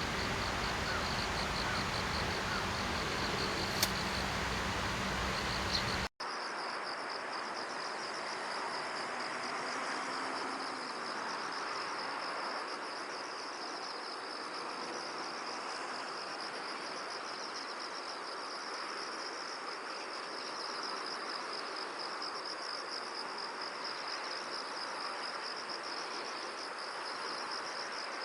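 Insects chirring steadily, a continuous high, finely pulsing trill like crickets, over a background hiss; the sound cuts out for an instant about six seconds in and resumes.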